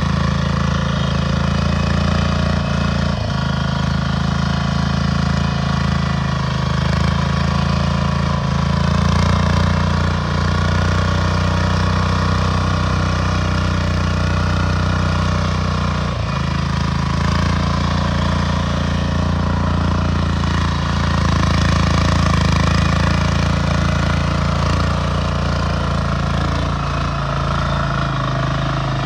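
Compact tractor engine running steadily, with a couple of brief knocks.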